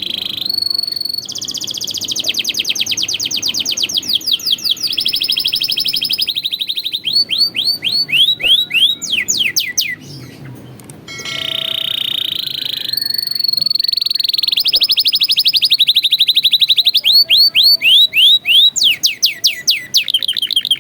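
Domestic canary singing: long rolling trills of very fast repeated notes that change into runs of quick downward-sweeping whistles, with a short break about ten seconds in before a second phrase of the same kind.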